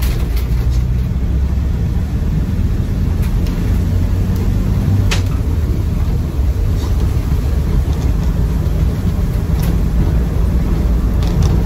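Cabin noise of a Land Rover Defender 90 driving, its 2.2 TDCi four-cylinder diesel and the road noise making a steady low rumble, with a few sharp clicks and light knocks scattered through.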